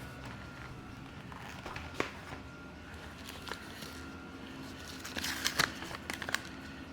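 Handling noise from fitting a foam tire insert into a mountain bike tire: scattered rustles and clicks, a sharp tap about two seconds in, and a burst of rustling and clicking near the end.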